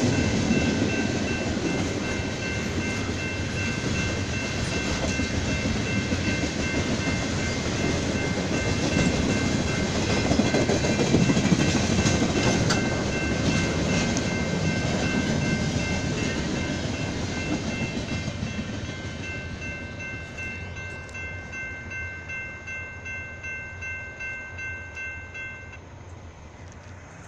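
BNSF freight train of tank cars and centerbeam lumber cars rolling past, its wheels rumbling and clacking over the rail joints, fading away over the last several seconds. A steady high-pitched ringing tone runs alongside and stops near the end.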